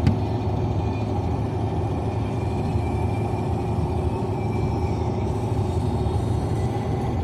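Steady road and engine noise of a moving car heard from inside the cabin, a low even rumble, with a single sharp click right at the start.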